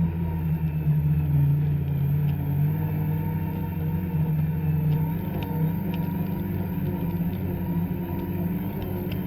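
Two-stroke snowmobile engine running at a fairly steady speed, its pitch wavering a little.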